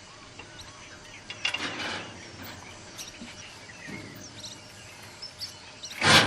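Outdoor ambience with faint bird chirps, broken by a short noisy burst about one and a half seconds in and a louder one near the end.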